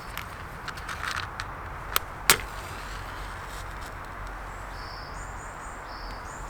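A few sharp snaps and knocks, the loudest about two seconds in, over a low steady outdoor rumble. A small bird then calls in short, high, repeated chirps in the second half.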